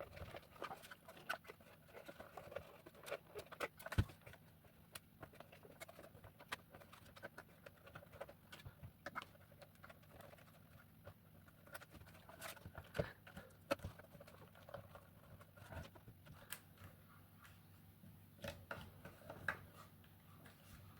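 Faint scattered taps, clicks and rustles of hands fitting a stick-on LED light strip inside a 3D-printed plastic mask, with a sharper knock about four seconds in.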